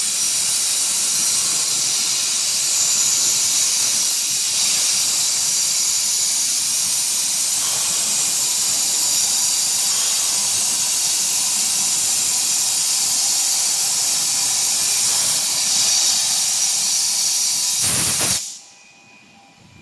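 Hypertherm XPR300 plasma torch cutting steel plate: a loud, steady hiss of the plasma arc that cuts off suddenly near the end.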